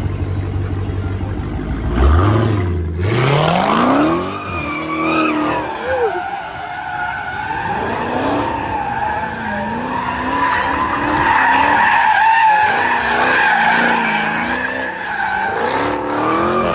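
Car drifting: the engine idles, then revs up sharply about two seconds in, and the tyres squeal in a long, wavering squeal as the car slides, with the engine note rising and falling under it.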